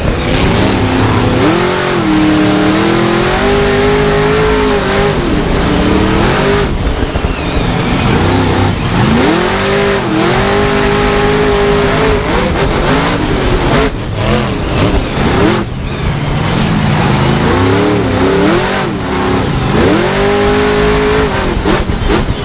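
Monster truck supercharged V8 engines revving hard, the pitch climbing steeply, holding at full throttle and dropping back three times over a rough, loud rumble.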